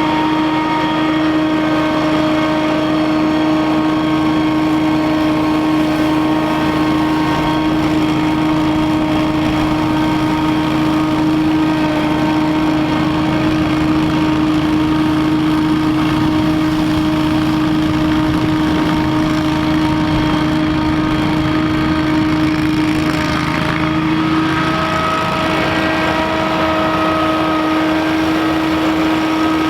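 Scag Windstorm stand-on leaf blower running steadily at high speed, its engine and fan giving a constant whine; late on the pitch steps up slightly.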